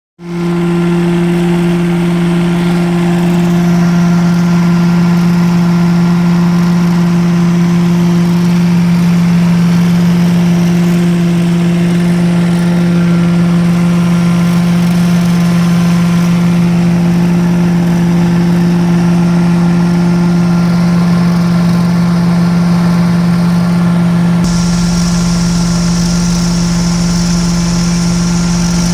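Prochem truck-mount carpet-cleaning unit running steadily: its 20 HP Kohler engine driving a Sutorbilt blower, with a strong, even hum. About 24 seconds in, a higher hiss and a deeper rumble join it.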